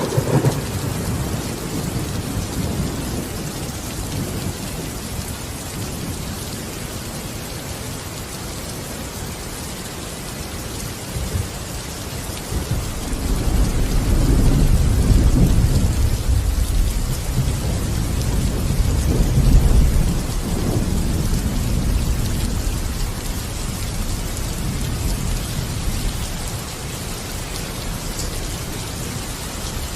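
Steady heavy rain with rolling thunder: a low rumble builds from about halfway, peaks twice and fades away again under the rain.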